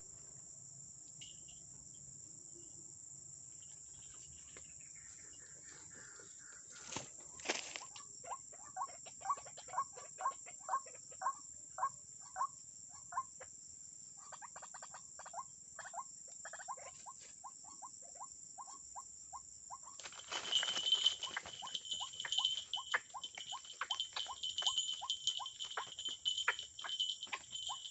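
Steady high insect trilling, with a run of short repeated calls at about two a second from about eight seconds in and again from about twenty seconds, in this setting the calls of white-breasted waterhens. Two sharp clicks come just before the calls begin.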